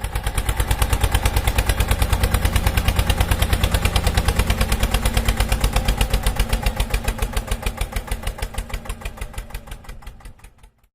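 Engine idling with a steady, rapid chug of about seven beats a second, fading out near the end.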